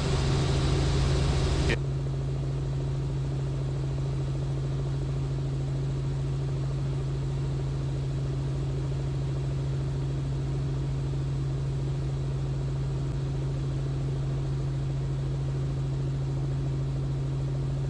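Robinson R44 helicopter in flight: a steady low drone of its rotors and six-cylinder Lycoming piston engine, dipping slightly in level about two seconds in and then holding constant.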